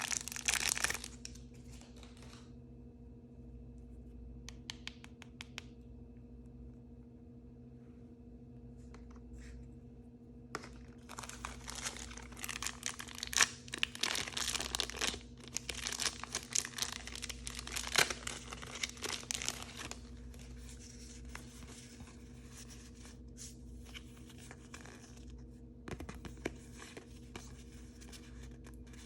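Blind bag packaging being torn open and crinkled by hand. A short burst of crinkling at the start, a quiet stretch with a few faint clicks, then several seconds of dense tearing and crinkling from about a third of the way in, easing to lighter rustling near the end.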